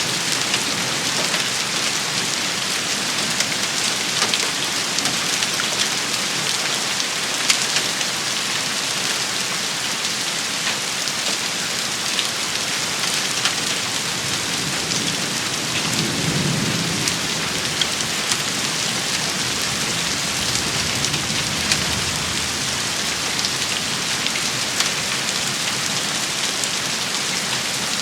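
Steady rain shower: a dense hiss of rain falling on surfaces, with scattered sharper drop impacts. A low rumble rises and fades about sixteen to eighteen seconds in.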